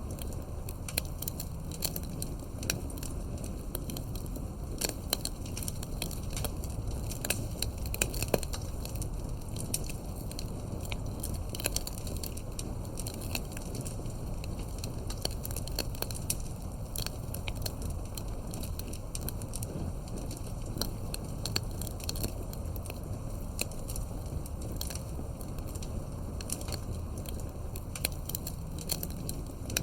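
Campfire crackling: many sharp, irregular pops and snaps over a steady low rumble.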